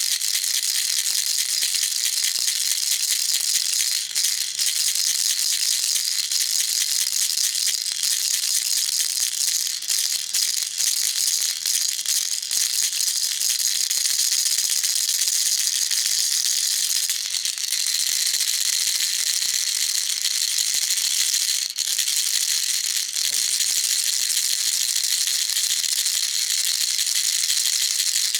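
Baby rattle shaken continuously, a dense, steady, high-pitched rattling with almost no low end.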